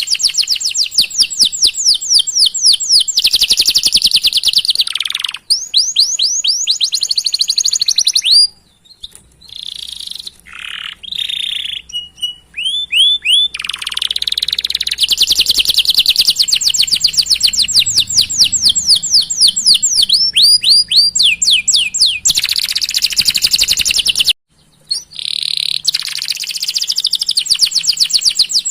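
Canary singing a long song of fast rolling trills: rapid, evenly repeated chirping notes that change pitch from phrase to phrase. A quieter stretch of scattered chirps comes about a third of the way in, and there are brief pauses.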